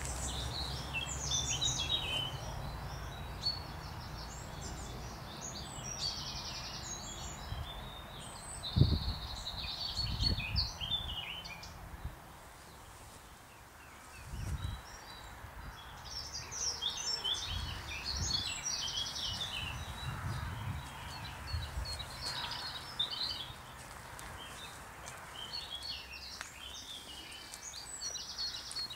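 Woodland songbirds singing in short phrases and quick trills over a soft background hiss, with occasional low thuds from walking with a handheld camera.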